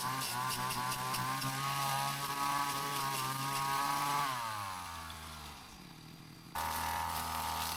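Brush cutter engine running at high speed, then the throttle released about four seconds in, its pitch falling away as the engine slows. Near the end a steady drone cuts in abruptly.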